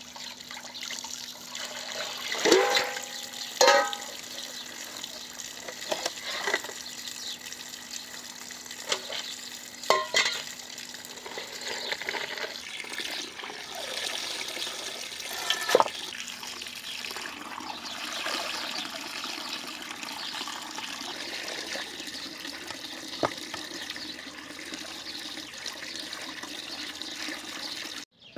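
Water running steadily, with a few sharp clinks and knocks of things being handled in it.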